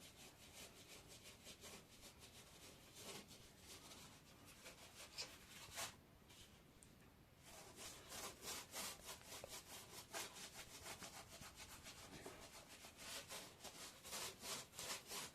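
Faint repeated rubbing or scrubbing strokes, scattered at first, then quicker and steadier from about halfway through.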